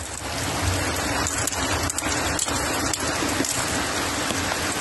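Heavy rain falling steadily, with a few sharper drop hits close by.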